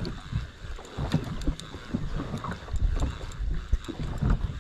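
Small boat drifting, with water slapping against the hull, wind buffeting the microphone, and irregular low knocks and thumps.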